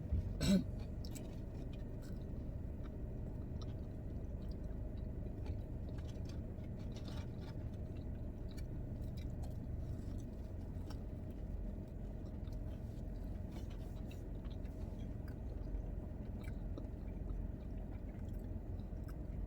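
Chewing and eating sounds from a mukbang of In-N-Out food, with faint scattered clicks and crunches over a steady low hum. A brief vocal sound comes about half a second in.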